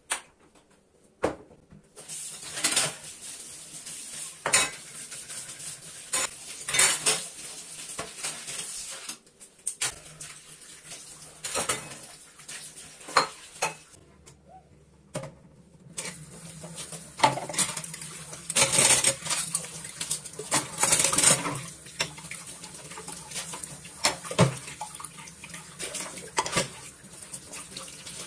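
Dishes, pots and cutlery clinking and clattering as they are handled and put away, in many separate knocks over a faint steady hiss.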